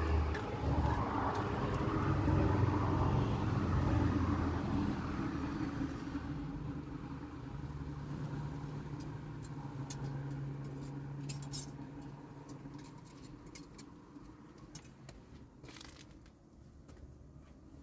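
A motor's steady low hum, gradually fading away, with faint scattered clicks near the end.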